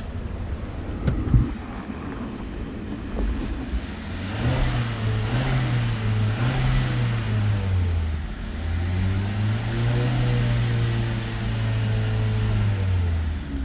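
A 2014 VW Golf 6's 1.4-litre four-cylinder TSI petrol engine revved up twice and held at raised revs for a few seconds each time, settling back between and near the end. A single sharp thump comes about a second in.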